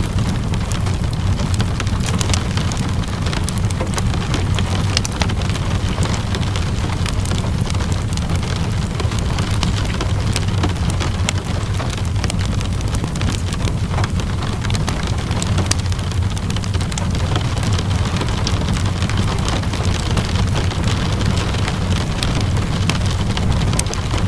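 Steady rainfall mixed with the scattered crackles and pops of a wood fire, over a constant low rumble.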